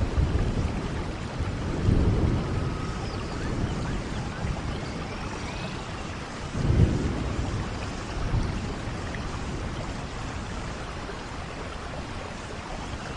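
Steady rain falling in a rainforest, with low rolling rumbles of thunder: one about two seconds in and a louder one about seven seconds in.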